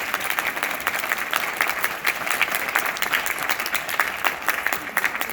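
Audience of students applauding: many hands clapping at once, dense and steady.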